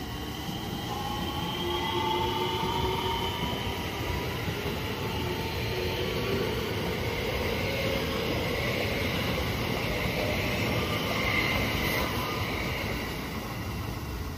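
JR West electric train running past: the rumble of wheels on rails with a rising whine from its traction motors as it picks up speed, easing off near the end as it draws away.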